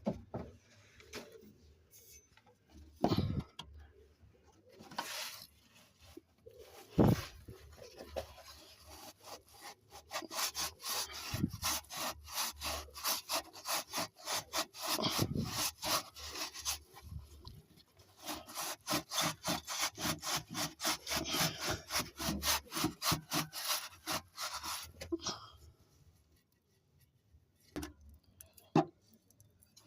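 Hand abrading of a car's exhaust pipe, fast back-and-forth rubbing strokes at about four a second in two long runs, to clean and roughen the leaking pipe before it is patched with Gun Gum. A few separate knocks come before the rubbing.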